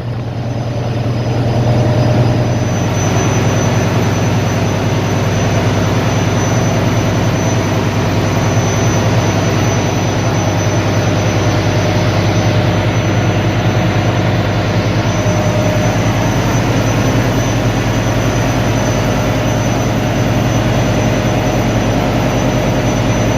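Heavy ship's engine machinery running steadily: a loud, constant low drone.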